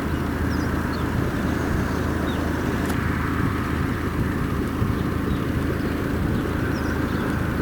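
Steady low engine drone, an added sound effect, with a few faint high chirps over it.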